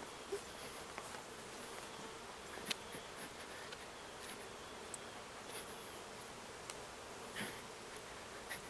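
Honeybees buzzing steadily around a hive, with a few light clicks.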